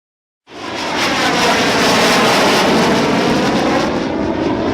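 AV-8B Harrier's Pegasus jet engine: a loud, harsh roar that starts abruptly about half a second in, its tone slowly sweeping as the aircraft moves. It eases slightly near the end.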